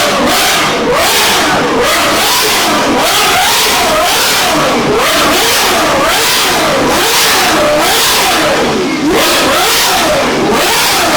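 A car engine revved over and over, its pitch climbing and dropping about once a second. Some of the revs overlap, as if from more than one engine.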